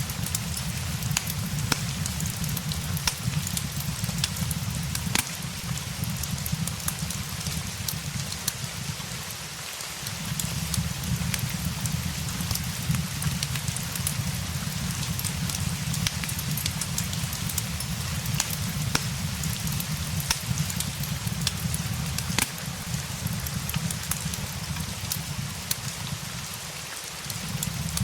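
Steady rain with a constant hiss and many small sharp ticks and crackles, blended with a crackling fireplace, over a low rumble that drops out briefly about ten seconds in and again near the end.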